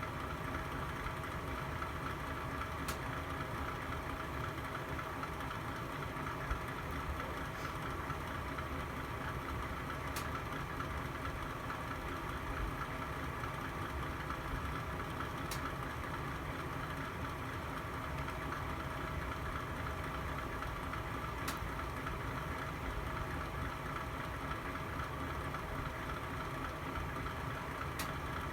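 Fire burning in a fireplace: a steady low rumble with five sharp pops, about every five or six seconds.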